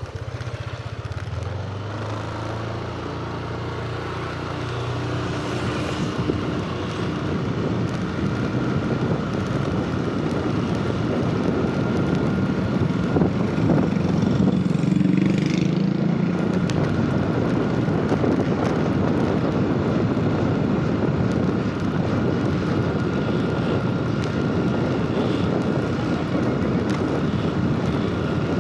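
A motor vehicle's engine running while on the move, with steady rushing noise. The engine note shifts in pitch a few times, and the sound grows louder over the first dozen seconds.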